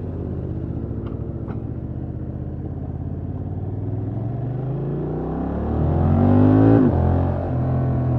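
Honda XL750 Transalp's parallel-twin engine through its stock exhaust, heard from the rider's seat while riding. The engine note climbs steadily under acceleration, drops sharply at an upshift about seven seconds in, then runs on steadily.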